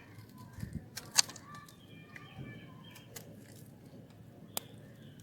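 Blade cutting a hard, dry bar of soap, giving sharp crisp clicks: the loudest about a second in and another near the end. Birds chirp faintly in the background.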